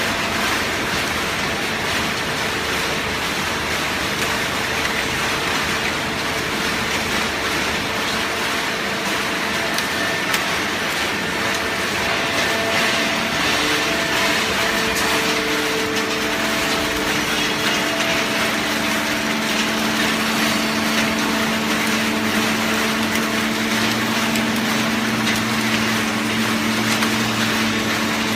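Hydraulic waste paper baler running: a steady machine noise with a constant hum, joined by lower hum tones about halfway through and again near the end.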